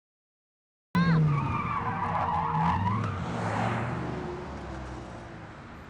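Car skidding with squealing tyres, starting abruptly about a second in and loudest at the start. The engine runs underneath as the sound slowly dies away.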